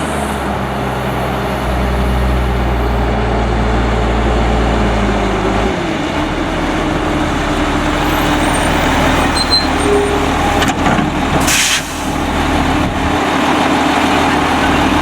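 Autocar front-load garbage truck's diesel engine running steadily, its revs dropping about six seconds in. A short hiss of air about eleven and a half seconds in.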